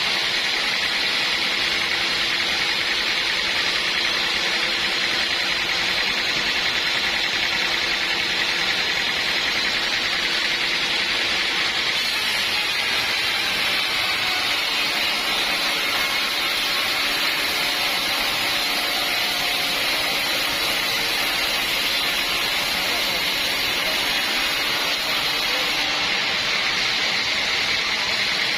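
Sawmill running steadily: a constant mechanical hiss with a faint engine hum underneath.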